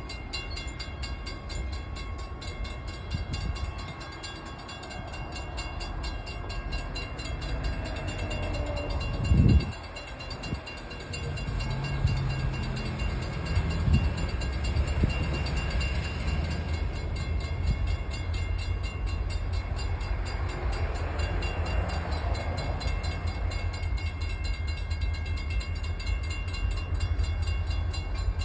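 Freight train passing: a steady low rumble of the diesel locomotive and rolling railroad cars, with a brief loud thump about nine and a half seconds in.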